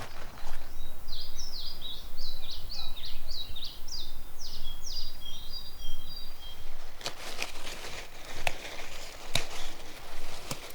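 A songbird sings a quick run of about a dozen short, high, down-slurred notes lasting some five seconds. Near the end come several sharp clicks or knocks, over a steady low background rumble.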